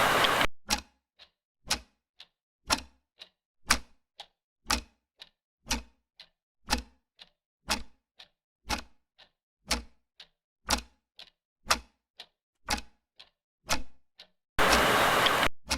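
Clock ticking at a steady pace, a louder tick about once a second with fainter ticks between. A second-long burst of loud hiss comes at the start and again just before the end.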